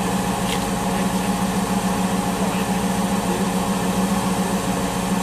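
A rally car's engine idling close by: a steady, even hum with no revving.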